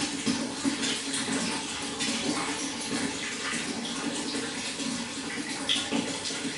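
Running water splashing steadily into a fish pond, a continuous even rush with small fluctuations.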